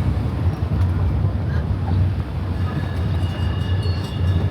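Tourist road train driving along the street, heard from aboard: a steady low engine drone and rolling rumble, with faint high squeaking from the carriages starting about three seconds in.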